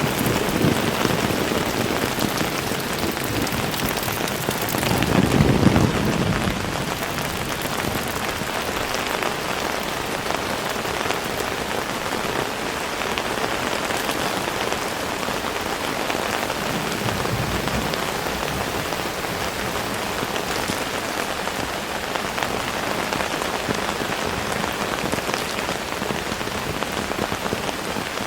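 Heavy rain falling steadily and pattering on surfaces, with a low rumble that swells and fades about five seconds in.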